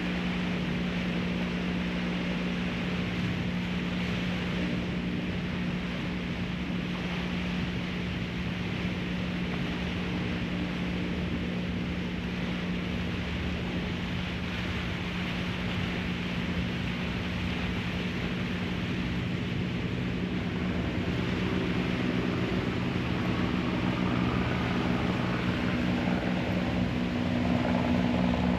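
Car ferry under way: its engines give a steady low drone over a haze of wind and water noise, getting a little louder near the end.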